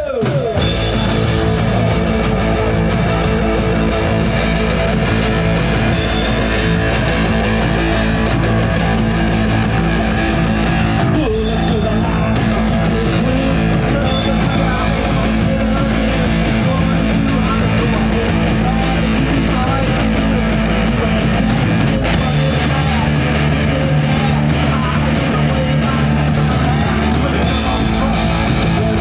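Rock band playing live: guitar over bass and drums, with a steady beat.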